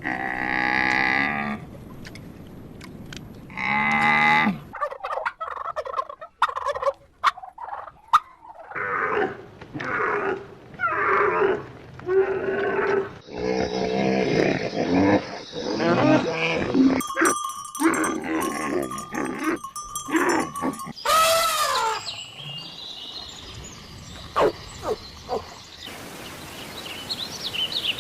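A run of different farm animal calls, one after another, each a few seconds long, with abrupt changes between them.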